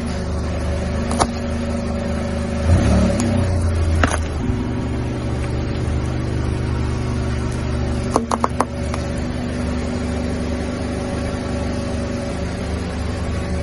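Car engine running at low speed as the car creeps forward on asphalt, with a steady hum and a brief change in the engine note about three seconds in. A few sharp clicks cut through it, with a quick cluster of them about eight seconds in.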